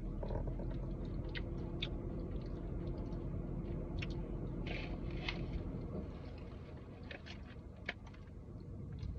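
Close-miked chewing, with scattered short crunchy clicks and mouth sounds, over a low steady hum.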